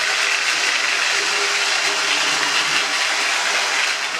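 Lionel Scout 1052 toy locomotive running on its track, a loud, steady whir and rattle of its electric motor and gears, cutting off suddenly at the very end.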